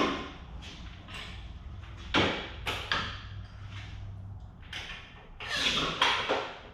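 Intermittent knocks, clanks and scraping of parts and tools being handled during garage work, with a longer scrape near the end.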